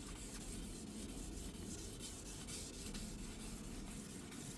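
2000-grit sandpaper rubbing steadily over the surface, a continuous scratchy rub, working out the finer scratches left by 1500-grit paper.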